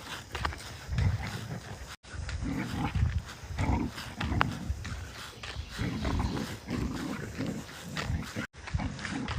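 Two dogs play-fighting, with repeated low growls.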